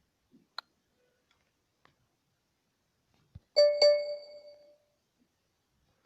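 A bell-like chime sounds twice in quick succession on the same note and rings out for about a second, just after a soft thump; a faint click comes near the start.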